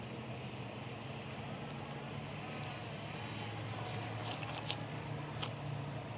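Wood campfire crackling, with a few sharp pops in the second half, over a steady low hum.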